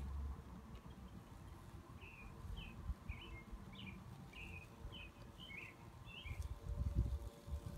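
A bird chirping, short notes about twice a second for several seconds, over a faint steady hum. A low rumble near the end is the loudest moment.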